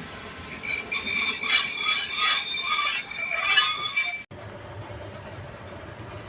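Train wheels squealing on the rails: a loud, steady high-pitched squeal that swells and fades about twice a second. It cuts off abruptly about four seconds in, leaving a quieter low rumble.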